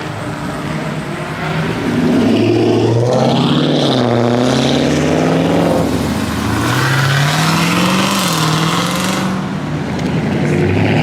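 Car engine revving and accelerating, its pitch climbing, dropping back and climbing again several times; louder from about two seconds in.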